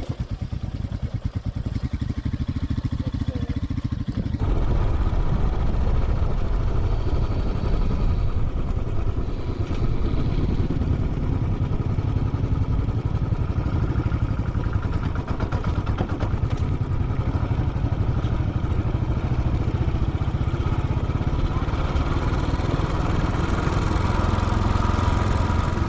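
Royal Enfield Classic 500's single-cylinder engine running under way, a steady low thumping exhaust that gets louder and fuller about four seconds in as the throttle opens.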